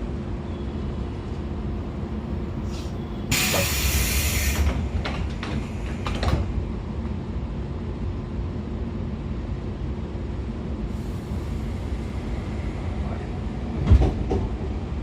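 Interior sound of a JR 113 series motor car with MT54 DC series-wound traction motors on DT21B bogies: a steady low rumble with a faint steady hum. A loud rush of noise lasting about a second and a half comes a little over three seconds in, and a single thump sounds near the end.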